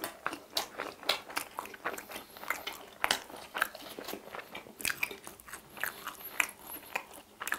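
Crispy fried popcorn chicken being bitten and chewed close to the microphone: irregular sharp crunches, several a second.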